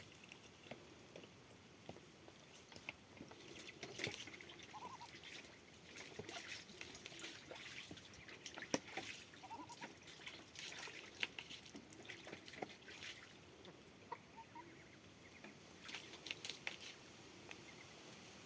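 Pet birds eating, pecking and cracking seed: faint, irregular small clicks and rustles, with a few short soft chirps.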